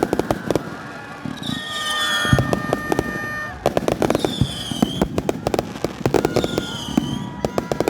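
Fireworks going off in rapid strings of sharp crackling bangs, in several bursts with short lulls between. A few short high whistles that dip slightly in pitch come between the bursts.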